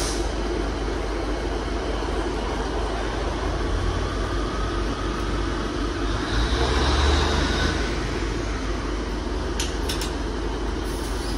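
Steady hum and rumble of a stationary passenger train at the platform, from its engine and ventilation. A deeper rumble swells about six to eight seconds in, and a few sharp clicks come near the end.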